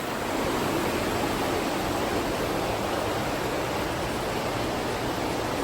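Steady rushing of creek water, an even wash of noise without a break.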